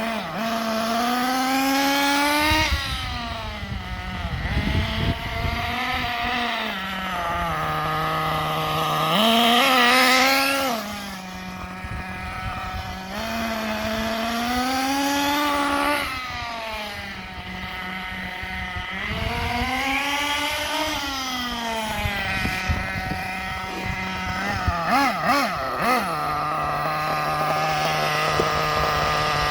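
The .21 nitro engine of a Kyosho MP10 1/8 buggy idling and being revved up and down several times, each rev rising and falling smoothly back to idle, with a few quick throttle blips near the end. The engine is being tuned from its break-in setting toward a clean single-stage idle.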